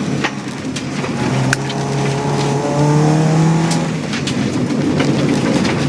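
Subaru rally car's engine heard from inside the cabin, pulling hard with its pitch climbing for about two seconds before dropping off about four seconds in. Sharp clicks and knocks from debris striking the car are heard throughout.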